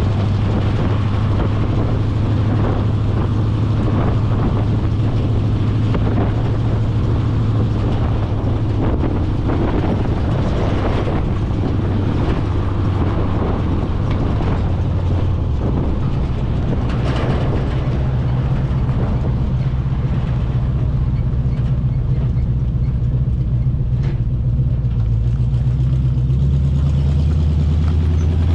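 A 1980 Chevy K20's 350 small-block V8 running through a glasspack exhaust as the truck drives under load, a steady deep engine note that shifts in pitch about halfway through and again near the end.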